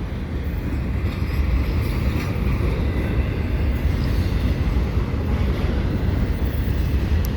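CPKC freight train rolling past at close range: a steady, even low rumble of its wheels and cars on the rails.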